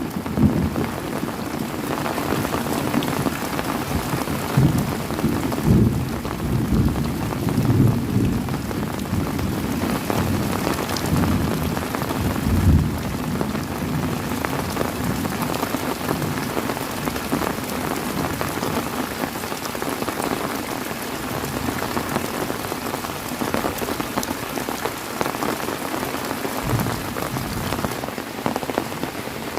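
Heavy rain falling steadily, with low rolling rumbles of thunder through roughly the first half, easing after about 13 seconds.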